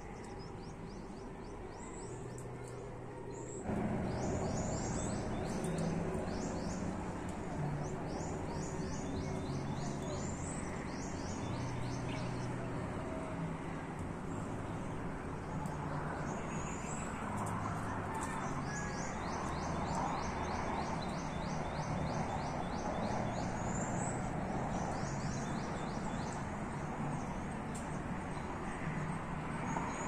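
Birds calling in the trees: quick runs of high chirping notes come again and again, over short low notes and a steady background hiss that gets louder suddenly about four seconds in.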